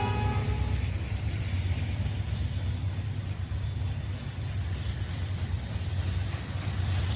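CSX welded-rail train's flatcars, loaded with long ribbons of rail, rolling past with a steady low rumble. The locomotive horn's last blast fades out in the first second.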